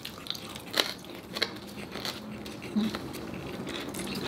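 Several sharp crunches of crispy-skinned lechon kawali (deep-fried-style pork belly, here air-fried) being bitten and chewed close to the microphone.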